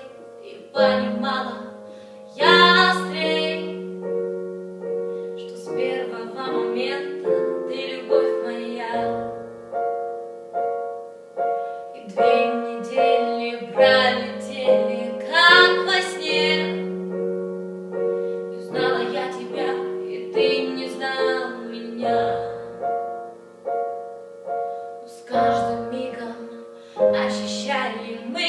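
A song: a woman's voice singing over piano accompaniment.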